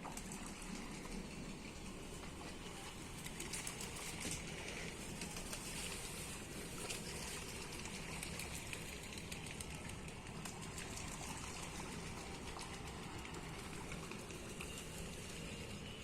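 Water trickling and splashing steadily, with many small drips and splashes on top.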